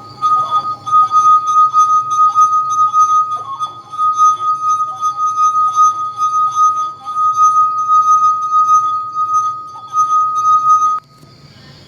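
Drinking glasses clinking together many times in quick, irregular succession over a steady high ringing tone; everything cuts off abruptly near the end.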